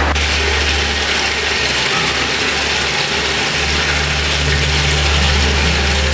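Heavy rain drumming on a metal roof, a dense steady patter, under a steady low rumble of strong wind.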